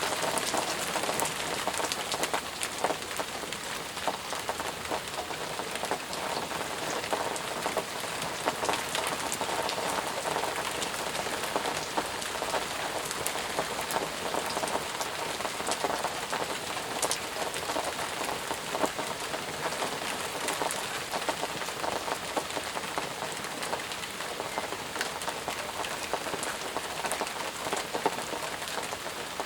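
Steady rain falling, heavy and even, with many individual drops pattering and ticking on close surfaces.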